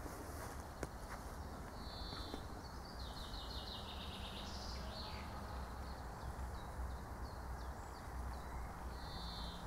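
Songbirds singing in short phrases: one about two seconds in, a longer trilled phrase from about three to five seconds, and another near the end, over a steady low rumble.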